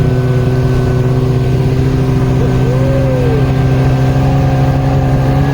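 A motor vehicle's engine running at a steady pitch while it is driven.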